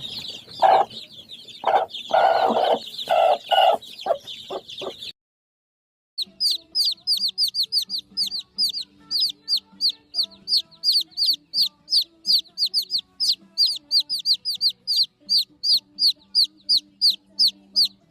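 Chickens clucking and squawking for about five seconds, then a short break; after it, a steady run of high, falling chirps, about three a second, over faint low held notes.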